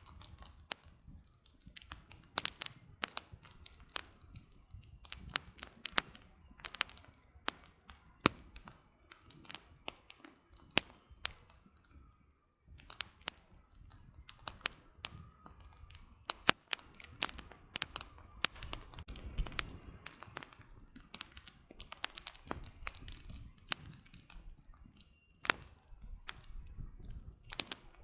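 Firewood burning in a campfire, crackling with irregular sharp pops and snaps, some much louder than others, over a faint low rush.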